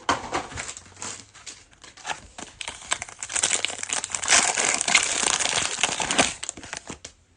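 The plastic foil wrapper of a 2021 Mosaic Football trading-card pack crinkling as it is torn open and peeled off the cards. The crackle is sparse at first, grows dense about three seconds in and stops abruptly near the end.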